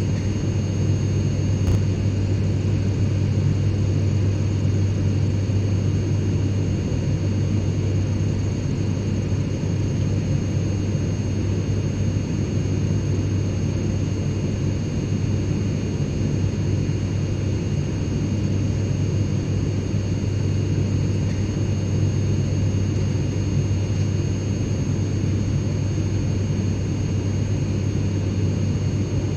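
Airliner cabin ambience: the steady low drone of jet engines and airflow heard from inside the cabin in cruise, with a faint high whine of steady tones above it.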